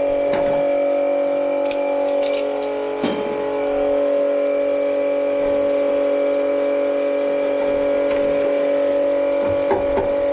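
A steady motor hum with several fixed pitched tones. A few light clicks come about two seconds in, and a knock about three seconds in.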